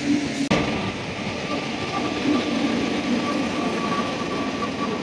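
Train noise: a steady rumble and rush with a thin, high steady whine, broken by an abrupt cut about half a second in.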